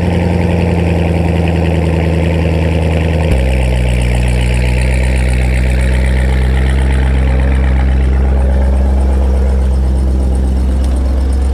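2017 C7 Corvette Grand Sport's 6.2-litre LT1 V8, fitted with an AWE catless X-pipe, at cold-start fast idle. About three seconds in the idle drops to a lower, steady speed.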